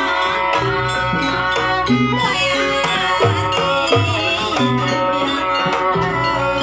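Live Javanese jaranan ensemble music: a melodic lead line with sliding pitches over hand drums keeping a steady beat.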